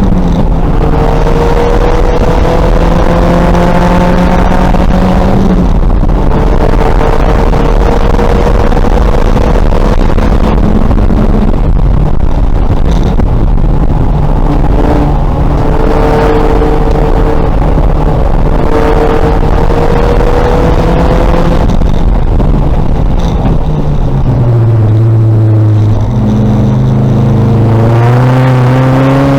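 2000 Volkswagen Golf race car engine under hard acceleration, its pitch climbing through the revs and dropping back at each upshift. It climbs twice, is held briefly, then drops lower about 24 seconds in before rising again near the end.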